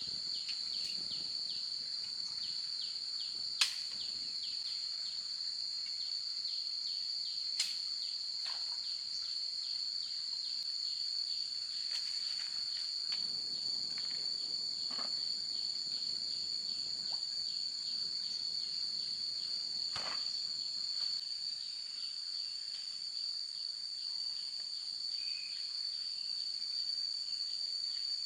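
Insects droning steadily at a high pitch, with short falling chirps repeating several times a second beneath the drone. Two sharp clicks stand out, a few seconds apart.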